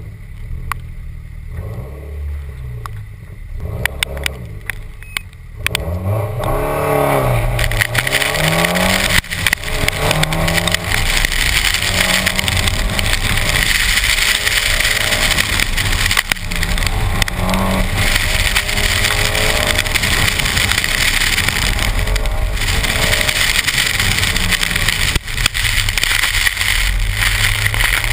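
Car engine revving up and easing off again and again through an autocross run, its pitch climbing and falling, over a steady hiss of tyres throwing up water from soaked pavement. For the first five seconds or so the engine runs at low revs and there is little spray, and then the car gets going.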